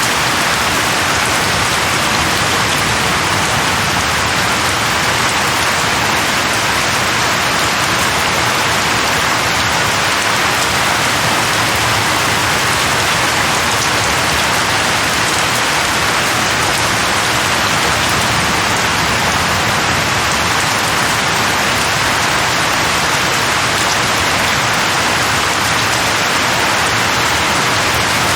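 Steady, even rain, a constant hiss of many drops with no single drops, thunder or breaks standing out.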